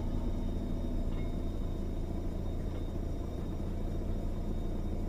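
Steady low rumble of a vehicle engine idling, heard from inside a car's cabin.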